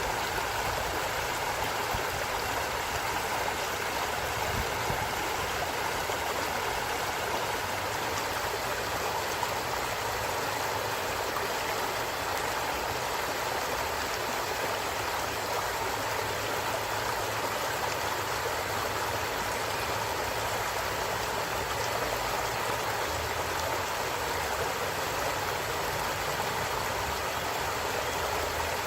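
Stream water running steadily over rocks, an even rushing and babbling without a break.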